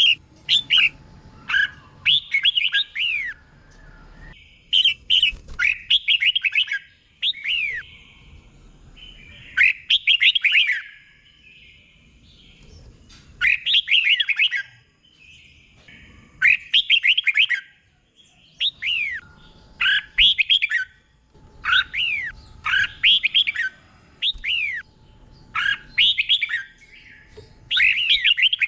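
Red-whiskered bulbul singing: short bright phrases of quick down-slurred whistled notes, repeated every couple of seconds with brief pauses between.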